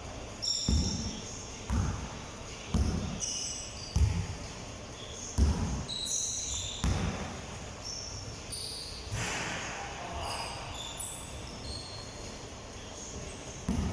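A basketball bouncing on a hard court floor, with thuds about once a second that thin out in the last few seconds, and short high squeaks between them.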